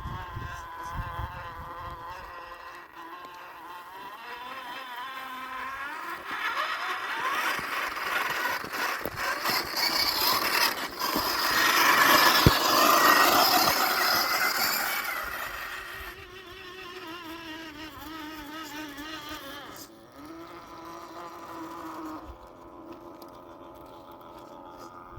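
Axial SCX10 II RC crawler's small electric motor and gear drive whining, its pitch shifting with the throttle. It grows louder over several seconds, is loudest about halfway through with a single click, then drops back about two-thirds of the way in.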